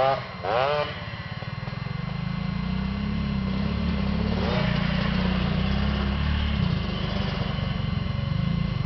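Small motorcycle engine running, growing louder over the first few seconds, holding steady, then easing off slightly about two-thirds of the way through.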